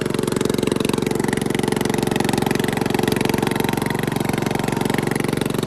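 Small garden-tractor engine running steadily through a homemade exhaust, with an even, unchanging beat.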